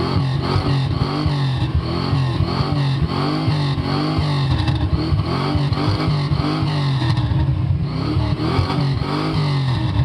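Carbureted engine of a Chevrolet B-body revved hard through its exhaust over and over, the pitch climbing and dropping back about one and a half times a second. It sounds as if it is bouncing off a rev limiter.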